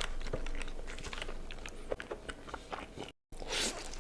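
Close-miked biting and chewing of a grilled cheese burrito with steak: wet mouth sounds with many small sharp clicks and crunches. The sound drops out briefly about three seconds in.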